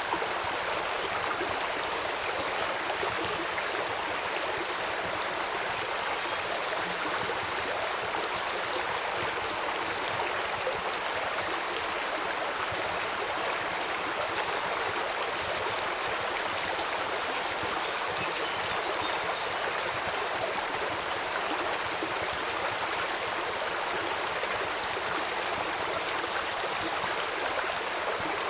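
Steady rush of flowing river water. About a third of the way in a faint high chirp starts, repeating about once a second through the second half.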